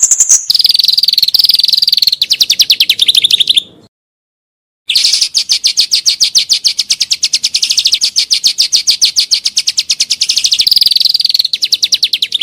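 Songbird singing long phrases of very rapid repeated notes in a rapid-fire trill, with a brief higher-pitched note at the start. The song breaks off for about a second around four seconds in, then a longer trill resumes.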